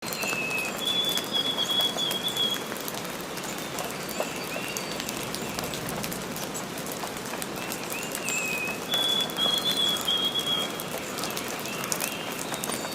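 Small birds chirping in the nest, high and thin, in two quick runs of rapid chirps with a few single chirps between, over a steady hiss.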